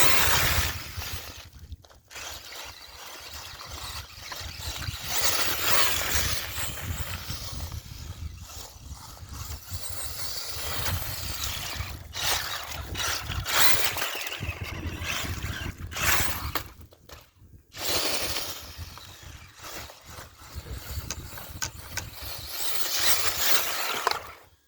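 Brushless electric motor of an Axial Wraith RC mud truck, run on 2S, revving in surges as the truck drives through mud, stopping briefly a few times. Wind rumbles on the microphone throughout.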